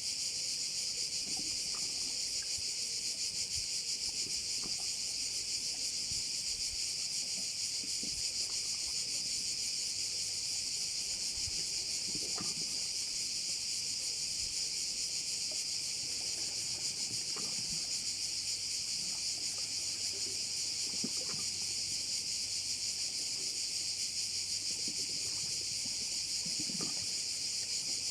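A dense chorus of crickets: a continuous high-pitched buzz that holds steady without a break.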